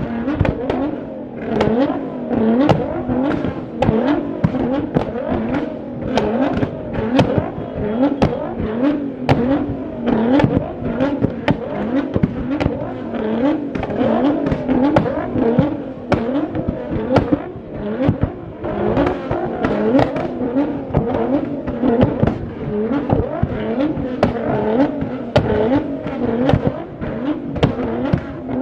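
Car engine revved again and again in quick blips, with exhaust pops and bangs cracking between and over the revs.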